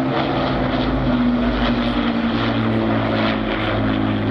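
Propeller-driven WWII piston-engined aircraft of the Battle of Britain Memorial Flight flying overhead: a loud, steady engine drone whose pitch shifts slowly as the aircraft move.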